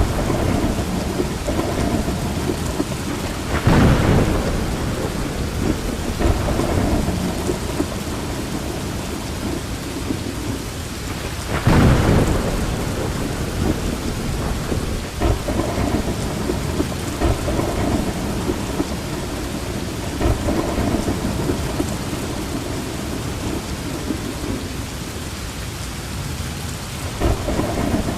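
Steady rain with low rolling thunder, swelling louder about four seconds in and again about twelve seconds in.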